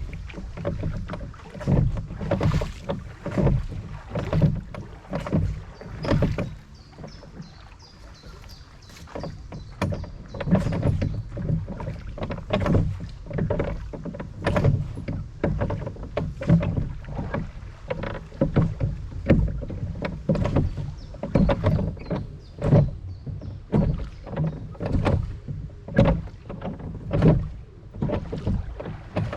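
Rowboat on a river: oars dipping and water splashing and knocking against the hull in irregular strokes every second or two, with a brief quieter spell around eight seconds in.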